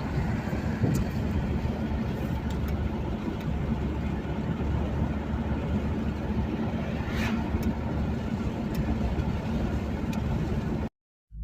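Car driving along a road: steady engine and road noise, cutting off abruptly near the end.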